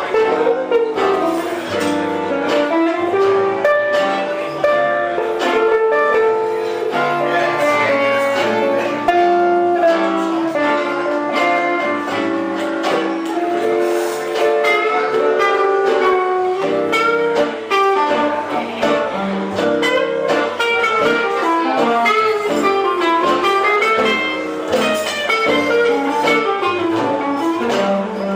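Live band music led by plucked guitar, with a steady rhythm and a busy melody line.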